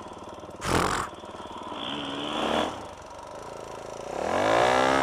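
Four-stroke single-cylinder dirt bike engine revving, rising in pitch and then climbing again more strongly near the end. There is a brief rush of noise about a second in.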